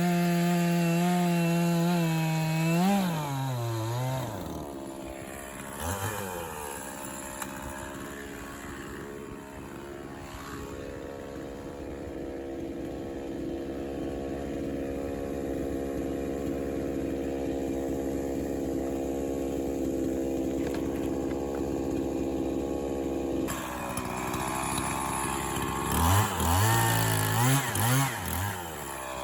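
Echo CS-501P 50cc two-stroke chainsaw running at full throttle in a cut through a pine log for the first few seconds, then dropping back to a steady idle. Near the end the throttle is blipped in a few short bursts that rise and fall.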